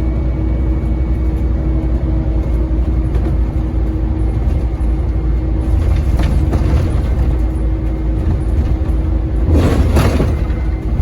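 Scania N230UD double-decker bus's five-cylinder diesel engine running at a steady pace, with heavy low rumble. A brief loud burst of noise about nine and a half seconds in.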